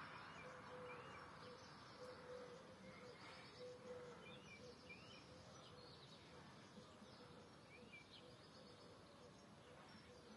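Near silence outdoors: faint, scattered chirps of small birds over a soft background hiss, with a faint steady hum underneath.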